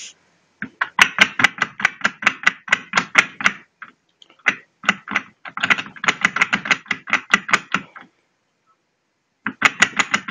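Slightly worn inner CV joint on a Mazda 626 (GE) drive shaft knocking: rapid clicking knocks, about six or seven a second, in three runs with short pauses between. The knock is the sign of wear in the inner joint.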